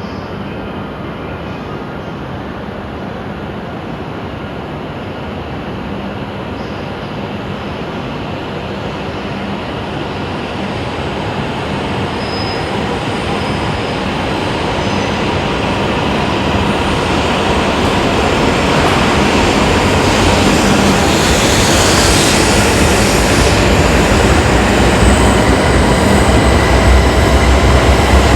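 Shinkansen bullet train running noise, a rush of wheels, motors and air that grows steadily louder throughout, with a deep rumble building near the end.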